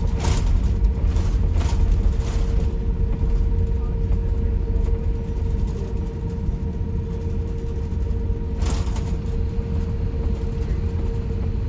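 Airbus A350-1000 cabin noise while the airliner rolls on the ground after landing: a steady low rumble with a constant hum, and a few brief rattling bursts in the first three seconds and again about nine seconds in.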